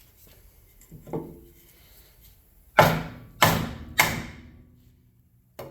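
Hammer blows through a wooden block onto a bare motorcycle wheel rim, being knocked straight: a lighter knock, then three hard strikes a little over half a second apart, each dying away briefly.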